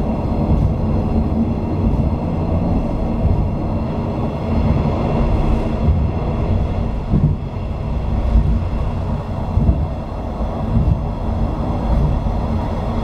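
485 series electric train running at speed, heard from inside the rear cab: a steady low rumble of wheels on rail and running gear, rising and dipping slightly.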